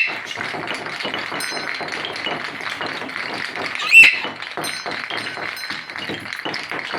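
Blue-and-gold macaw giving one short, loud squawk about four seconds in, over rapid, irregular tapping and clicking.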